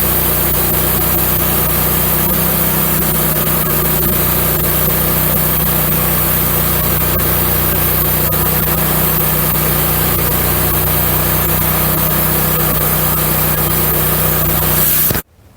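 Wood-Mizer LX150 portable bandsaw mill running steadily, its engine driving the band blade through an oak log; the sound cuts off abruptly near the end.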